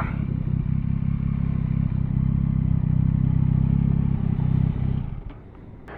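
Yamaha Tracer 9's three-cylinder engine running steadily at low road speed, then dropping away to near idle about five seconds in.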